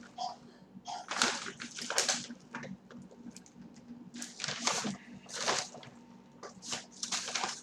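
Someone eating close to the microphone: irregular chewing and lip-smacking sounds, about one a second, over a faint low steady hum.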